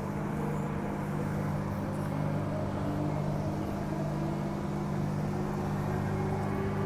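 Cabin of a Transperth A-series electric multiple unit pulling away from the platform: a steady low hum, with the traction motor whine slowly rising in pitch as the train gathers speed.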